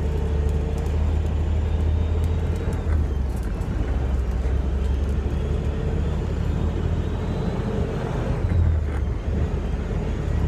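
Big-rig diesel engine running with a steady low drone.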